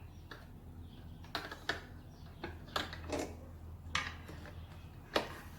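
Irregular metallic clicks and clinks of a 7/16 wrench working the nuts under a trolling-motor mount as they are tightened.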